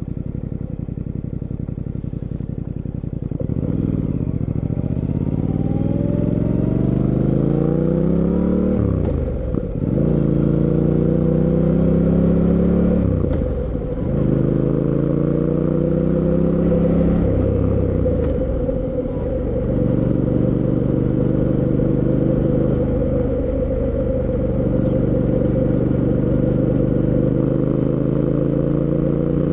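Fantic Caballero 700 Scrambler's 689 cc parallel-twin engine running at low revs, then pulling hard through the gears: the pitch climbs and drops sharply at three upshifts, about 9, 14 and 19 seconds in. It then settles into a steady cruise.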